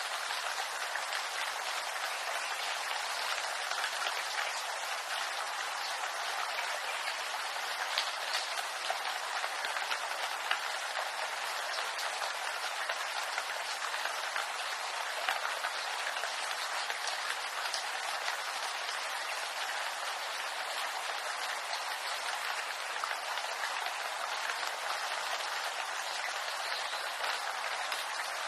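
Steady rain falling on bamboo leaves: a dense, even patter of drops, with a few slightly louder single drops standing out, one about eight seconds in and another about fifteen seconds in.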